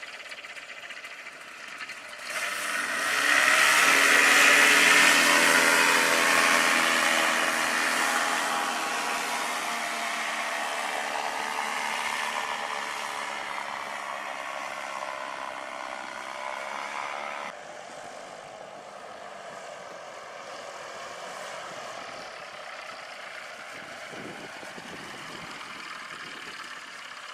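Paramotor engine running. It opens up to high power about two seconds in and its pitch eases down slowly. About two-thirds of the way through it drops abruptly to a lower, quieter setting.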